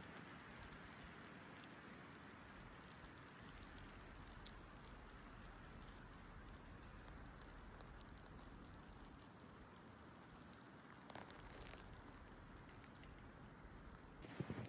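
Near silence: a faint, steady hiss, with one small knock about eleven seconds in.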